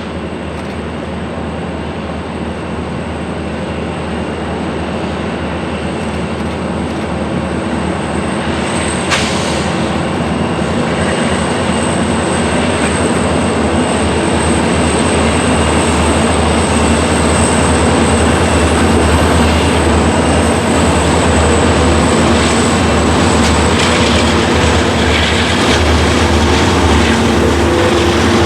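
Freight train rumbling along the track, growing steadily louder over the first two thirds and then holding, with one sharp click about nine seconds in.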